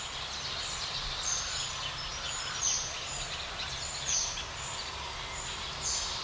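Outdoor nature ambience: birds chirping, short high calls repeating about twice a second over a steady background hiss.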